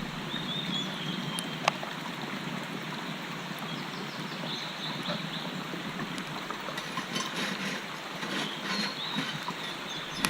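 A brook babbling steadily, with a few faint high bird chirps at the start and near the end and a single sharp click a couple of seconds in.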